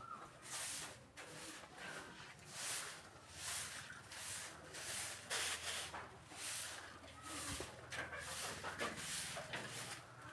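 Pencil scratching across paper in short repeated strokes, about one a second, as feathers are sketched.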